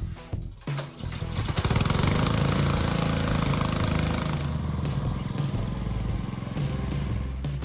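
Small gasoline pressure washer engine starting about a second in, then running steadily.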